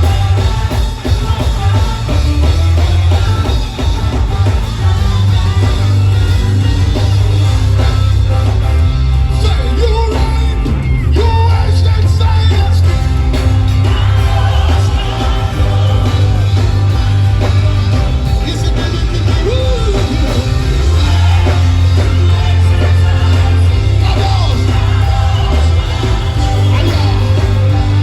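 Live worship music: a band playing loudly with singing over a heavy, pulsing bass.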